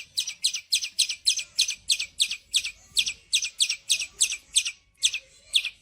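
A small bird chirping rapidly and repeatedly, about five short high chirps a second, with a brief pause near the end: an angry, scolding bird.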